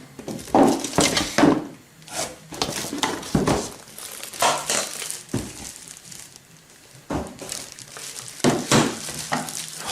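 Cardboard and plastic packaging rustling and crinkling in irregular bursts as a kettle is unpacked from its box.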